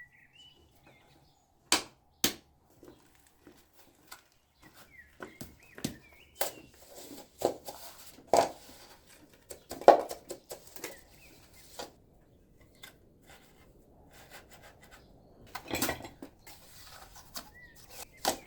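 Irregular knocks, clicks and scrapes of limestone pieces and masonry tools being handled while building a stone wall, with two sharp strikes about two seconds in and a busier run of knocks in the middle, loudest about ten seconds in.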